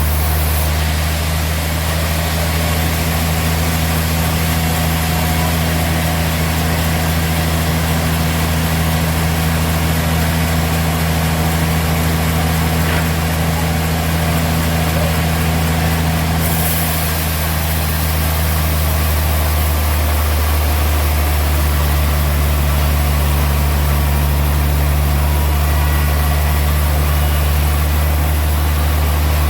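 Sawmill machinery running steadily: a low engine hum under a steady rush of noise. The mix changes slightly a little over halfway through.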